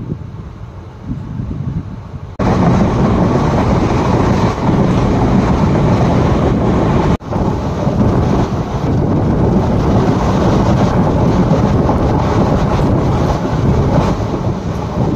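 Passenger train running at speed, heard from an open coach window: a steady rumble of wheels on rail mixed with wind rushing over the microphone. The noise jumps abruptly louder about two seconds in and cuts out for an instant about halfway through.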